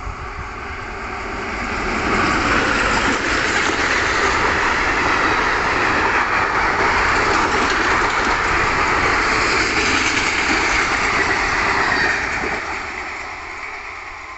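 A train passing close by. Its rumble swells over the first two seconds, holds loud for about ten seconds, then dies away.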